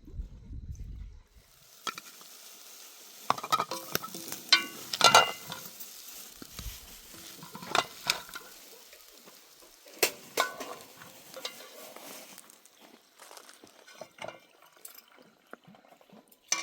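A metal utensil stirring and scraping in metal cookware, with several sharp, ringing clinks, the loudest about five seconds in.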